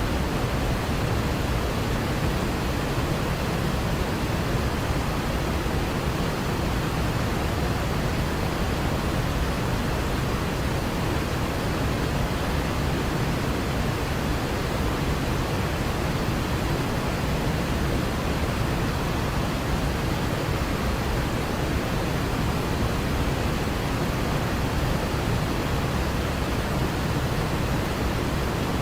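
Waterfall: falling water rushing in a steady, unbroken roar, fullest in the low and middle range.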